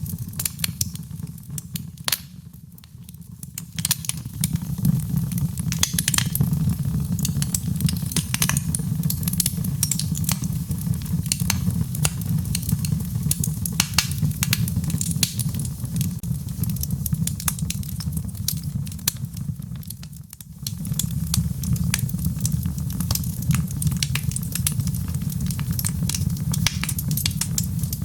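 Wood fire in a fireplace crackling and popping, with a dense run of sharp snaps over a steady low rumble of the flames. It dips briefly twice, about three seconds in and again around twenty seconds.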